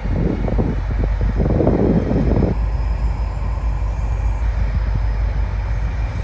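Diesel locomotives and passing trains giving a steady low rumble, with a louder rushing swell during the first two and a half seconds.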